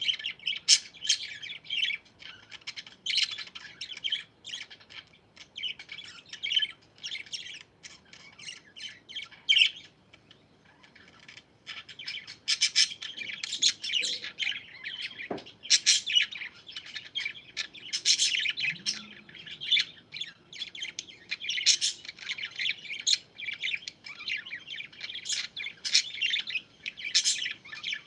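A flock of pet parakeets chattering, with rapid overlapping chirps, warbles and squawks. The chatter thins briefly about ten seconds in, then picks up again busier than before.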